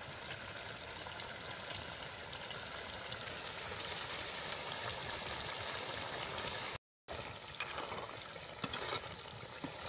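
Chicken curry simmering and sizzling in an aluminium pot over a wood fire, a steady hiss. It breaks off briefly about seven seconds in, and a spoon stirring the pot adds faint scrapes near the end.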